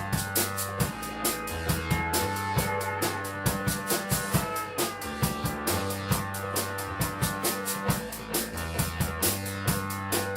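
Band music without singing: a drum kit keeps a steady beat with bass drum and snare over held bass notes.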